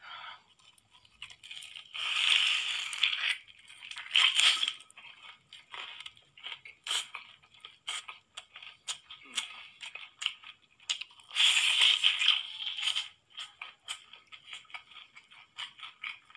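Close-up mouth sounds of eating a sauce-glazed chicken drumstick: wet chewing and smacking with many short sticky clicks, and a few longer noisy stretches, about two seconds in, about four seconds in, and again around the middle.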